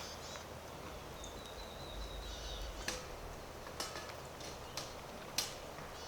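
Quiet forest ambience with a thin, high bird call held for about a second and a half, then a handful of sharp snaps about a second apart.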